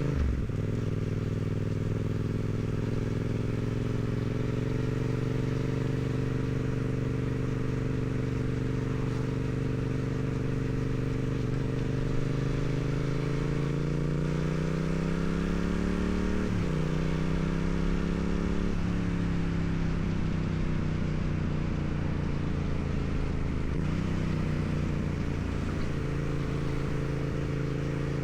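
2016 Yamaha MT-07's parallel-twin engine through its stock exhaust, ridden on the road. The engine note holds steady, then climbs slowly under throttle, breaks sharply twice past the middle as gears change, and falls away for several seconds before levelling off, over a steady rush of wind on the microphone.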